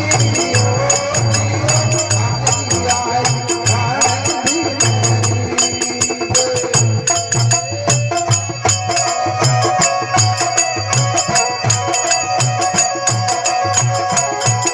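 Rajasthani folk bhajan music played without words: a steady low drum beat under dense jingling percussion, with a melody line that settles into a long held note about halfway through.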